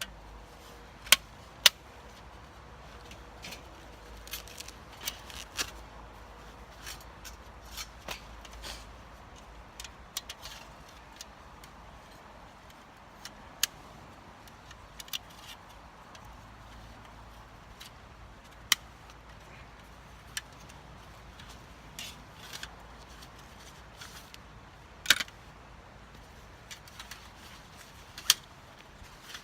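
Scattered metallic clinks and clatters of camp cookware and a folding stove being handled, a dozen or so sharp knocks spread irregularly, a few of them loud.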